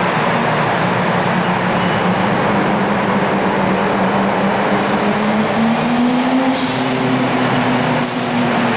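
Car engines and tyre noise echoing in a road tunnel: a steady loud din, with an engine tone rising slowly about six seconds in and a brief high squeak near the end.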